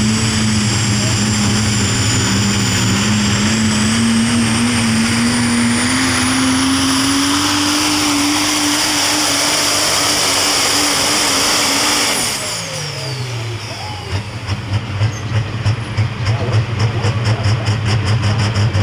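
Super stock diesel pulling truck running at full power down the track, its engine note slowly climbing as it pulls, with a high turbo whine above it. About twelve seconds in the driver lets off: the engine and turbo whine fall away sharply, and the engine carries on at a lower, pulsing rumble.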